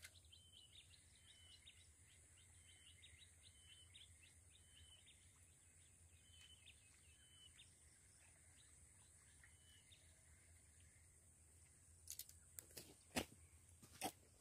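Faint outdoor ambience: small birds chirping in short repeated notes over a steady high thin whine, with a few sharp clicks near the end.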